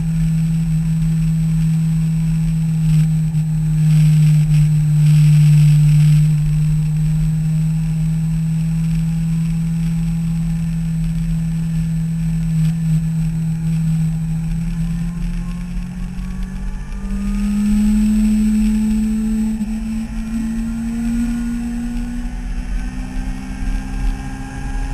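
Yamaha YZF-R6 inline-four engine running steadily at cruise with a constant note, over wind rush. About two-thirds of the way through the note steps up and then slowly climbs as the revs rise.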